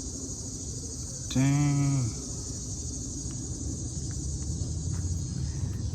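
Steady high-pitched chirring of a cricket chorus, with a low rumble underneath.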